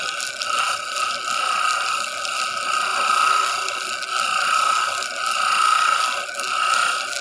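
An electric power tool running steadily on wood, its high whine swelling and easing about once a second as the load changes.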